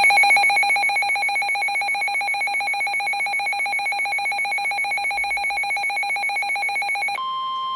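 Electronic weather-alert alarm: a rapidly pulsing, trilling high tone for about seven seconds, then a switch to one steady tone, the NOAA Weather Radio warning alarm tone that comes before a new warning.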